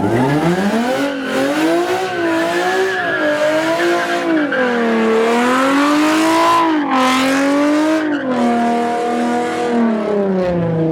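A car engine held at high revs, its pitch repeatedly rising and falling as the throttle is worked, then dropping lower near the end.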